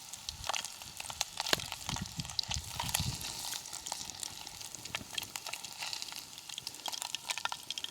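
Fish frying in hot lard, a steady sizzle with frequent small pops and crackles.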